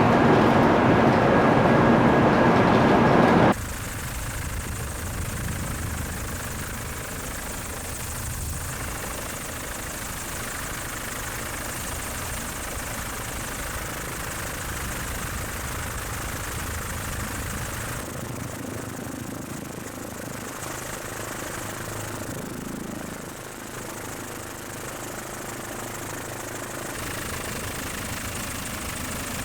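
Steady helicopter engine and rotor noise, after a louder noise that cuts off abruptly about three and a half seconds in.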